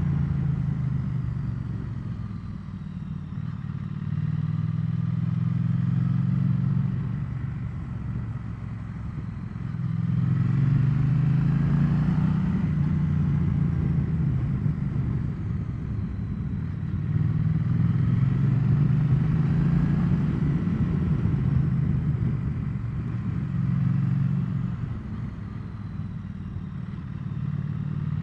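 Triumph Bonneville T100 parallel-twin motorcycle engine running on the move. Its note and loudness rise and fall every few seconds as the throttle is opened and eased.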